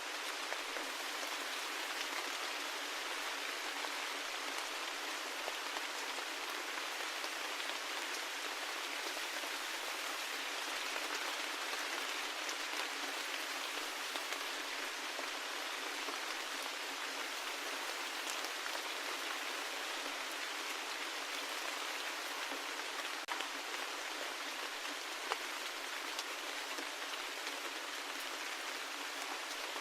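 Rain falling steadily: an even hiss with scattered sharper drop ticks, one louder tick near the end.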